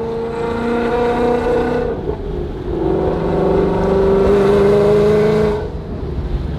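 Supercharged Ford Mustang 5.0 V8 heard from inside the cabin, pulling under load. About two seconds in the note breaks briefly for an upshift and comes back lower. It then climbs slowly and drops away near the end as the driver eases off.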